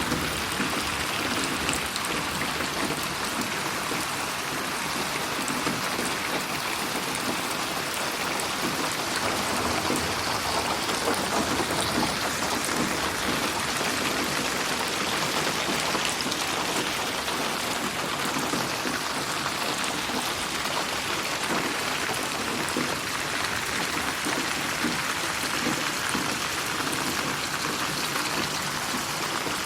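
Steady rainfall with a fine patter of drops, an even hiss without let-up, processed as 8D audio so it pans around the listener.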